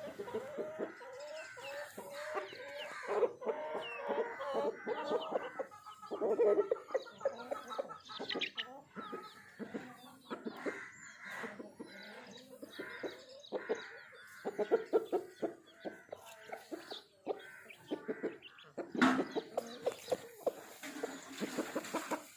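Aseel chickens clucking, short calls repeating over and over throughout.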